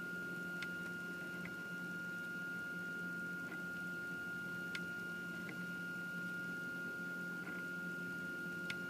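Prusa i3 3D printer running at the start of a print: a steady high whine over a low hum, with a few faint clicks every second or two.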